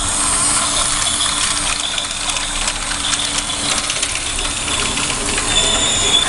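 Battery-powered toy steam locomotive running on plastic track: a small electric motor whirring steadily with a fast rattle of gears and wheels as it pulls a long string of cars, moving slowly under the load.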